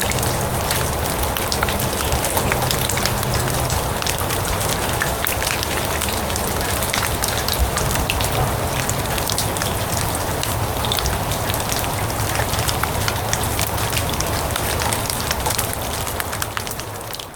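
Steady rain falling on grass and leaves: a dense hiss dotted with many separate drop taps. It fades down in the last second.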